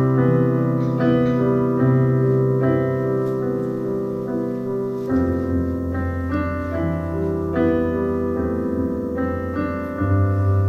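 Solo piano playing the introduction to a French chanson: chords struck again about once a second over held bass notes, the bass moving to a new note about halfway through and again near the end.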